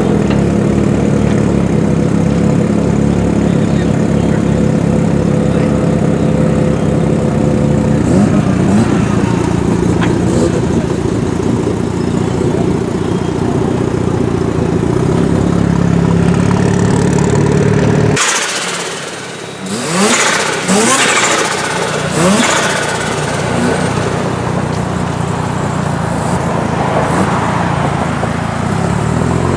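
Mazda RX-7 engine running at low revs with a steady, uneven rumble. About two-thirds of the way through the sound changes suddenly: the deep rumble drops away and short rising revs and noisier engine sound follow.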